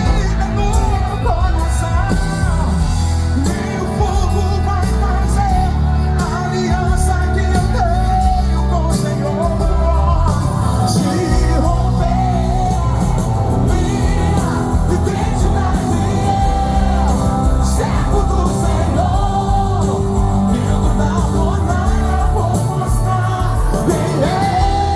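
Live band playing a gospel song loudly with heavy bass, and a singing voice with wavering, drawn-out notes over it.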